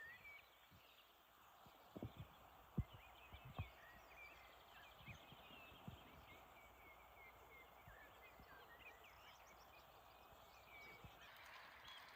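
Faint birdsong: many short, high chirps and twitters from small birds, with a few soft low thumps in the first few seconds.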